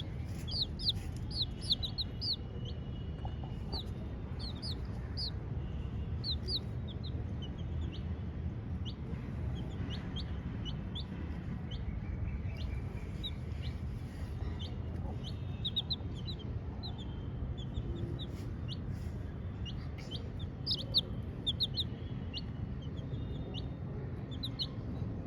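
Young chicks peeping: many short, high cheeps, often in quick runs, over a steady low background noise.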